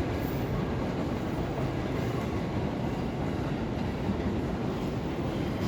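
Shinkansen bullet train running on the rails: a steady, even rumble with no change.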